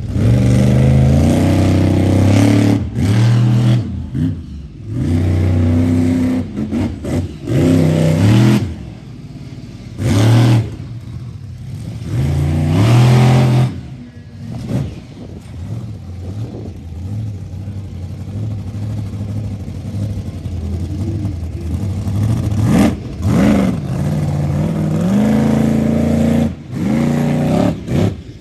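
Monster truck's engine revving hard in repeated bursts, the pitch climbing and falling as the throttle is opened and snapped shut. It runs lower and steadier for several seconds in the middle, then revs up again near the end.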